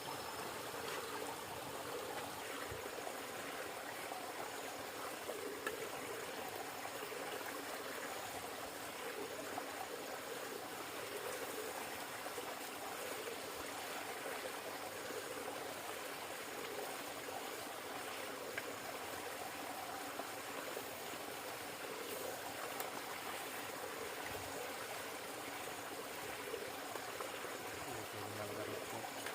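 River water flowing steadily: an even rushing and trickling that does not change.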